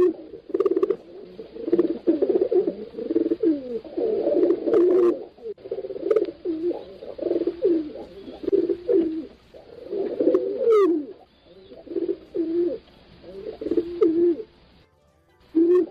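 Pigeons cooing, several at once, in repeated low coos that overlap, with short breaks between phrases. A brief high rising squeak comes about eleven seconds in.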